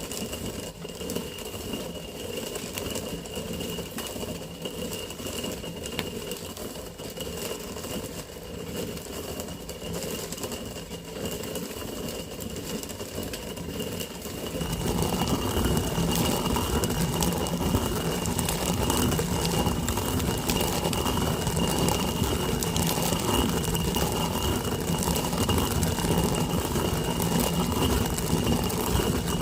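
An engine running steadily, with a thin high tone held throughout; about halfway through it grows louder and fuller.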